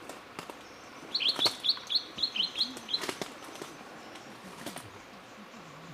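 White-throated wren-babbler singing: a quick run of about nine short, sharp high notes, roughly five a second, lasting about two seconds, with a few sharp clicks around it.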